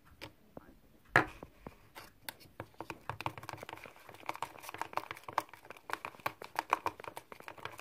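A single sharp knock about a second in, then from about three seconds on a quick, dense run of small sticky clicks and crackles: a wet glue-based slime mixture being stirred.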